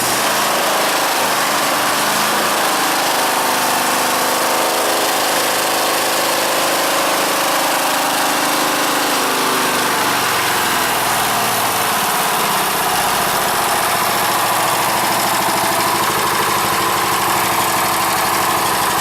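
Scotts garden tractor's engine running steadily just after starting on choke, with its note shifting somewhat partway through.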